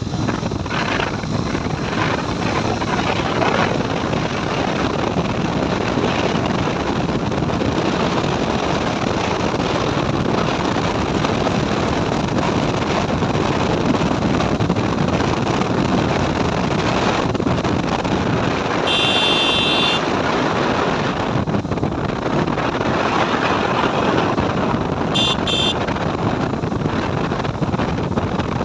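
Steady wind rush on the microphone of a moving motorcycle, with the vehicle's running noise underneath. Two short beeps sound about two-thirds of the way in and again a few seconds later.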